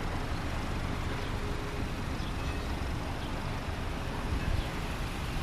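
Steady low rumble of vehicle noise with a hiss above it, even throughout with no distinct events.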